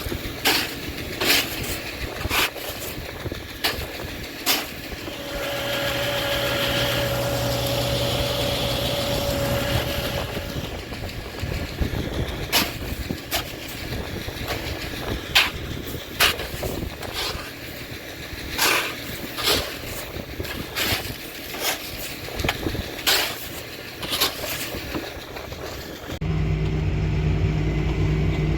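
Repeated sharp knocks and scrapes of caked fertilizer being broken up by hand in a wagon, with a steady hum for a few seconds early in the first half. Near the end the sound cuts to an engine running steadily.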